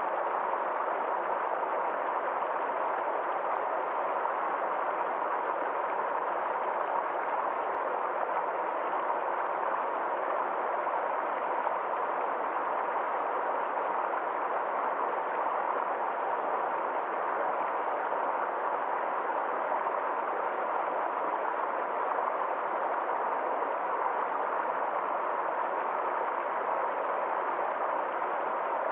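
Forest stream flowing steadily, a constant even rush of water with no change in level.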